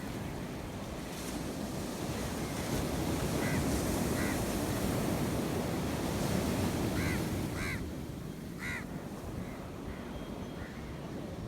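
Sea surf washing ashore, a wave swelling for a few seconds and then easing back, with wind on the microphone. A few short, high calls sound over it near the middle.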